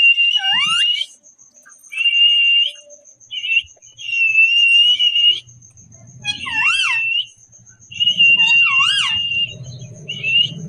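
Pet parrot giving a string of shrill, held whistling calls, about seven in all, several with quick up-and-down wavering notes.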